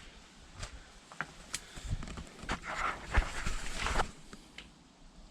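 Footsteps and rustling through brush and debris: irregular crackles and clicks, busier in the middle, with one sharper thump about three seconds in.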